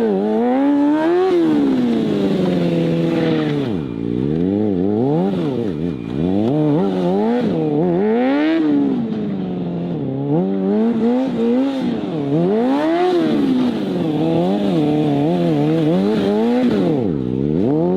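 Motorcycle engine revving up and down again and again, its pitch climbing and then dropping every second or two.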